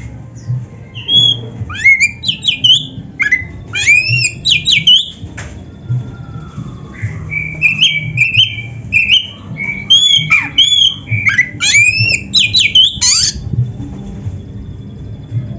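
Oriental magpie-robin (kacer) singing a fast, varied song of sweeping whistled notes and chattering phrases, with a short pause about halfway and the song stopping near the end. A steady low hum runs underneath.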